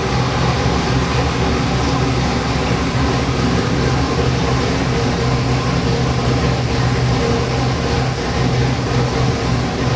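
Custom-built 441-cubic-inch LS V8 crate engine running on an engine dyno, held at a steady speed with no revving.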